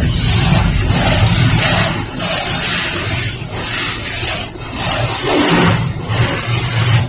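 Automatic tunnel car wash working over a car: a loud hissing wash of water spray and cleaning equipment that swells and fades about once a second, over a steady low hum.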